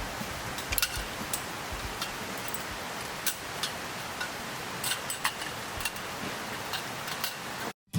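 Wood campfire crackling: scattered sharp pops and snaps over a steady hiss, cut off abruptly just before the end.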